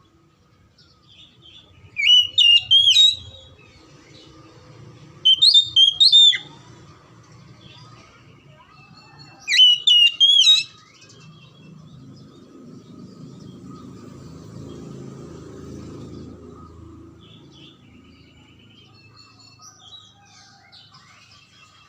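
Oriental magpie-robin singing: three loud bursts of high whistled song, each about a second long and a few seconds apart, with softer chirps near the end.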